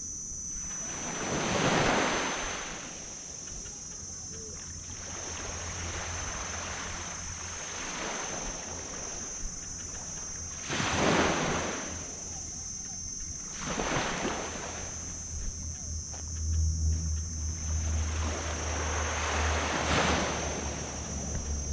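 Tropical surf washing onto a sand beach, with waves breaking in surges about four times. A low engine hum comes in over the surf in the last few seconds.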